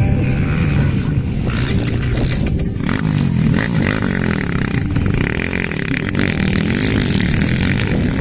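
Several single-cylinder four-stroke motocross motorcycle engines revving up and down together, their pitches rising and falling as the bikes race over the track.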